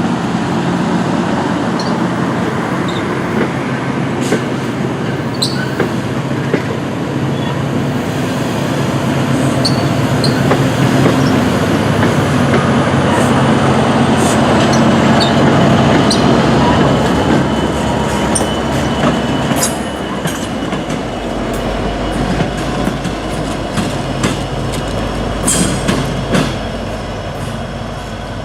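Diesel-hauled passenger train rolling past close by: a loud, steady rumble of wheels on rail with scattered clicks and a thin high wheel squeal, swelling to its loudest near the middle and easing off in the last third.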